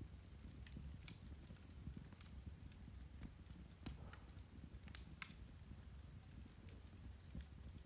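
Turf (peat) fire crackling quietly: irregular small pops and snaps, a sharper one about five seconds in, over a soft low rumble.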